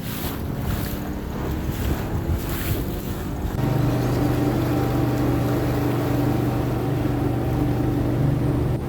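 Mini boat's motor running under way, with wind on the microphone and water noise. About three and a half seconds in, the motor note gets louder and settles into a steady hum.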